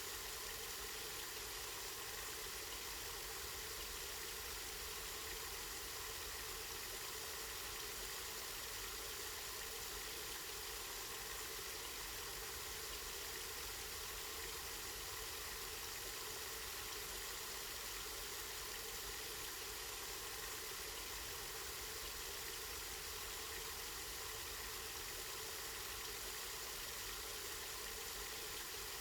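Water from a spring running steadily, an even rushing hiss with no change throughout.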